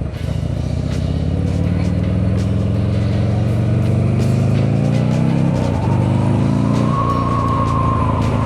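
Motorcycle engine accelerating, its pitch rising steadily, then dropping sharply just before six seconds in as it changes gear and climbing again.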